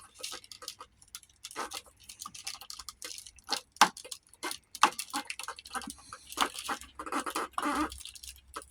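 Hands working on a model aircraft repair: irregular light clicks, taps and scrapes, with a denser stretch of scraping near the end.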